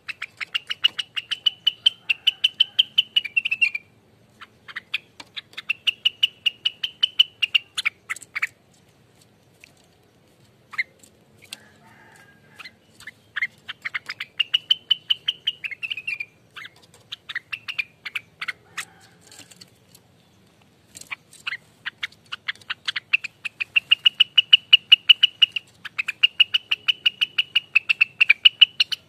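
Rengganis bird singing its rapid 'ropelan' song: fast trains of sharp, repeated notes in bouts of a few seconds, separated by brief pauses.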